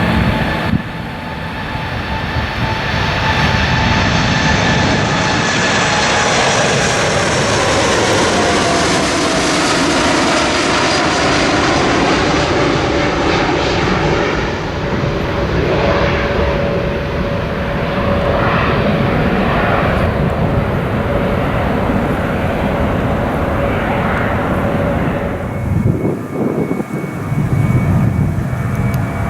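Jet airliner's engines at takeoff power as it climbs away past the runway end. The noise swells to its loudest about eight seconds in, with an engine whine that falls in pitch as the plane passes, then slowly fades.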